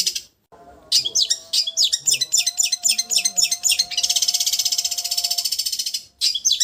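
Long-tailed shrike (cendet) singing loudly: runs of sharp, quick, high notes alternating with a long, fast, buzzy trill, with short breaks just after the start and near the end.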